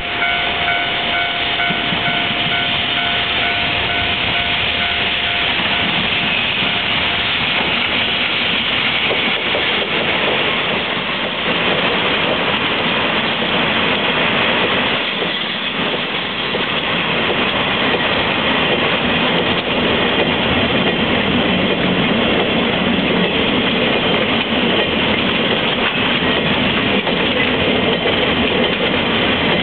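Freight train of two-axle Wamu boxcars rolling past at close range, a steady loud rumble and clatter of wheels on the rails. A repeating high tone sounds over the first few seconds.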